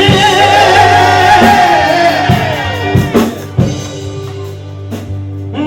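Church worship band music with a drum kit. A voice holds a long sung note for the first two seconds, then single drum hits fall over a steady low accompaniment.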